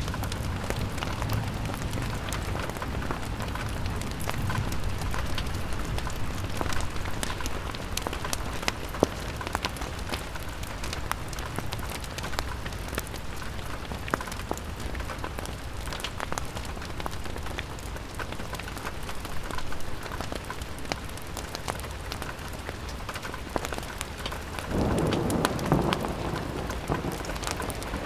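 Steady rain on a window mixed with wind and a crackling fireplace, with scattered sharp ticks of drops and crackles. Near the end the sound swells louder for a few seconds.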